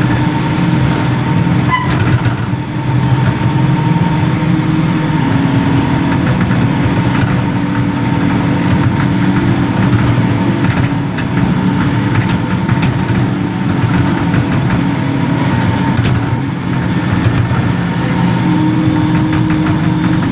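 Heavy diesel engine of a reach stacker running steadily, its pitch stepping up and down a little as the engine speed changes.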